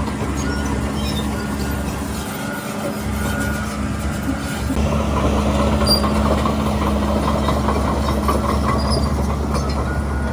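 Shantui DH17C3 crawler bulldozer's diesel engine running steadily under load while its steel tracks clank and squeak, the clatter coming quick and rhythmic in the second half.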